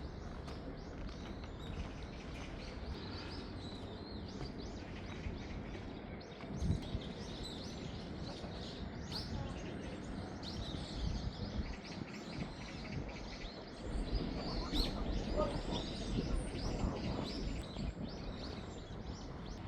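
Small birds chirping again and again over steady outdoor background noise. A low rumble grows louder about two-thirds of the way through.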